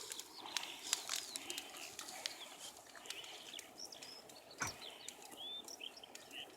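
Small birds chirping and singing faintly in short, rising and falling notes, with a few sharp clicks, the clearest about two-thirds of the way in.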